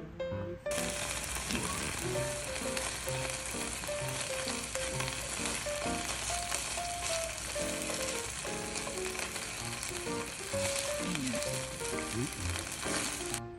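Food sizzling and frying in a hot pan: a dense crackling hiss that starts suddenly about a second in and cuts off just before the end, over background piano music.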